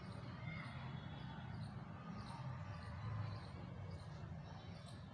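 Faint outdoor ambience: a steady low rumble with small high-pitched chirps repeating about twice a second.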